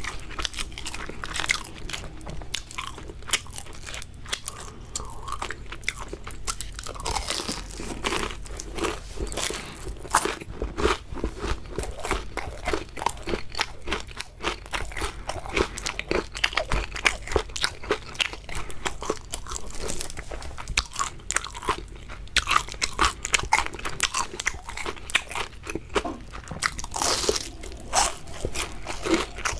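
Close-miked biting and chewing of crispy fried shrimp, a dense run of irregular crunches.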